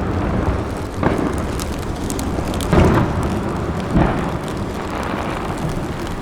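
Aerial fireworks shells bursting. Deep booms come about one, three and four seconds in, over a continuous rolling rumble of echoes, with some faint crackling between the first two booms.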